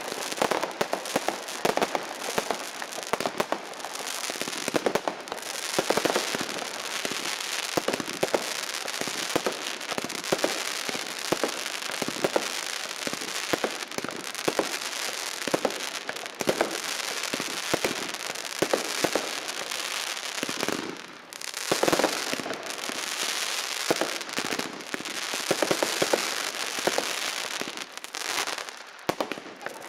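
Consumer fireworks going off without pause: a steady hiss of rising shots and fountains under dense crackling and frequent sharp bangs, with a brief lull about two-thirds through.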